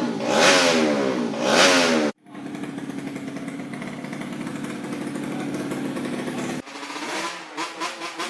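Motocross bike engine revved in quick blips for about two seconds, then after a sudden cut running at a steady idle; near the end the sound cuts again to something quieter and less steady.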